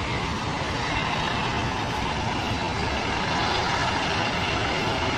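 Steady roar of the Rhine Falls, a large waterfall.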